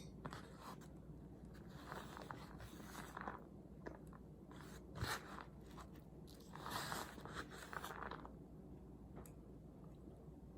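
Faint sounds of eating: a spoon clicking and scraping on a plate as rice is scooped, and chewing, with a sharper click about five seconds in.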